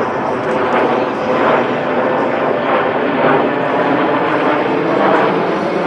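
Formation of Aero L-39 Albatros jets, each with a single turbofan engine, flying a display: a loud, steady jet roar.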